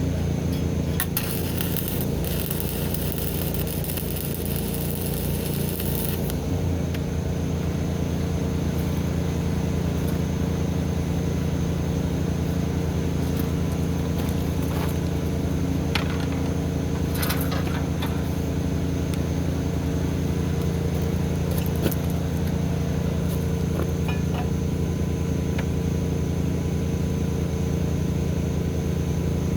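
An engine running steadily at an even speed. For a few seconds, starting about a second in, a crackling hiss sits over it, and scattered clicks and scrapes follow.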